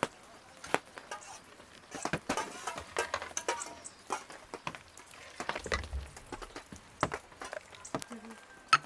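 A string of irregular light knocks and clicks, a few a second, with one sharper knock near the end.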